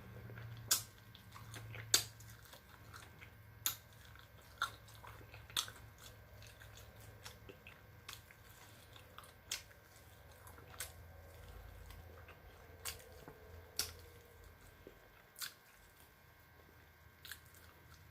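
Person chewing crispy lemon pepper chicken wings, with about a dozen sharp crunches spread irregularly through soft chewing.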